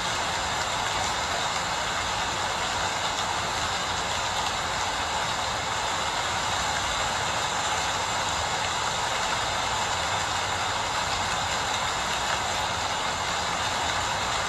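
Steady rain falling, an even hiss with no distinct drops or other events standing out.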